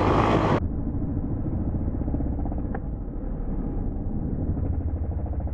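2017 Honda CRF450R's single-cylinder four-stroke engine idling with a steady low pulse. About half a second in the sound turns suddenly muffled, with the treble cut off.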